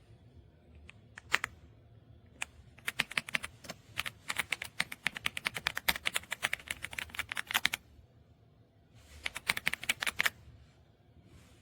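Typing on an EPOMAKER x Aula F75 gasket-mounted mechanical keyboard. A few single keystrokes are followed by a fast run of keypresses lasting about five seconds, then a pause and a shorter burst of typing.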